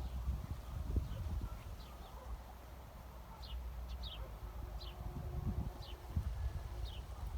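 A small bird chirping: short, high, falling notes repeated roughly once a second, over a steady low rumble with occasional thumps.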